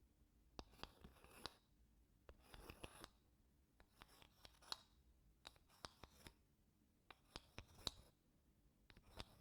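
Wooden spoon scraping across wooden blocks in soft, slow strokes, about one every second and a half, each with small clicks and taps.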